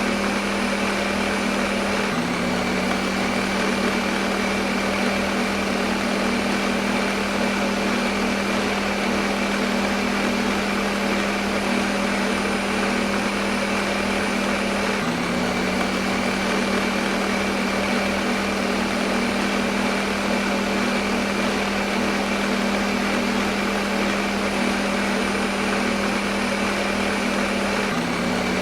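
Electric kitchen blender motor running at a constant speed, a steady hum over an even rushing noise.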